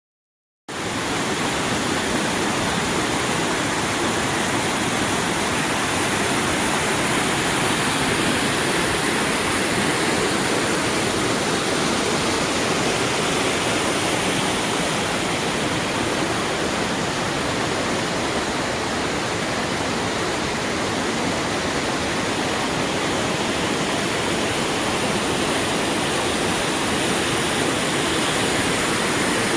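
Waterfall: a steady, loud rush of falling water with no pitch to it, cutting in suddenly just under a second in.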